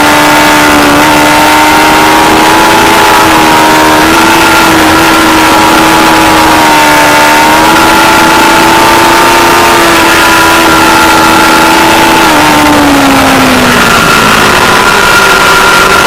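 Aprilia Tuono V4 Factory's 1077 cc V4 engine running hard at high revs over a loud rushing noise. The pitch holds nearly steady with small steps, then drops about 12 to 14 seconds in as the revs come down.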